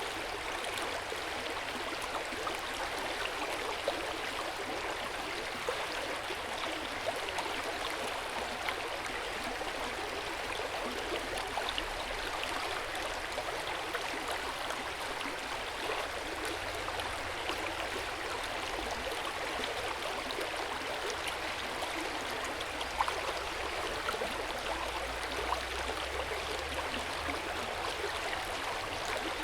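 Hot-spring water flowing into an open-air stone bath: a steady rush of water with many small splashes and drips.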